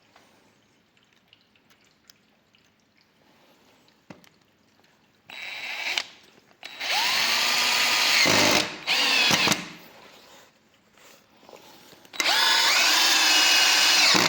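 Parkside PABS 20 Li G8 cordless drill-driver driving a 3.9 × 70 mm screw. The motor runs in three bursts after about five quiet seconds, its whine rising in pitch at each start; the last run lasts about two seconds near the end.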